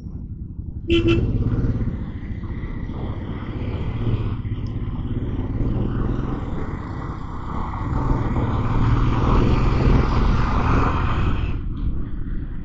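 Motorcycle engine running as the bike rides through city traffic, with wind and road noise that grows louder for a few seconds in the second half. A brief, loud, pitched blip sounds about a second in.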